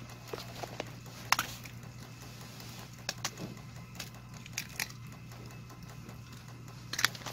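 Scattered sharp clicks and taps over a steady low hum, the loudest four coming roughly every two seconds.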